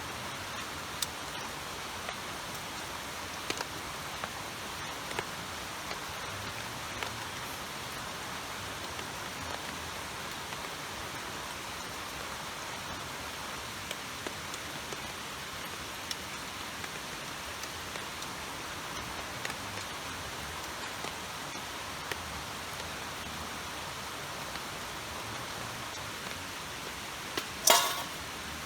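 Steady rain falling in a sudden downpour, with scattered drop ticks, and a brief loud clatter just before the end.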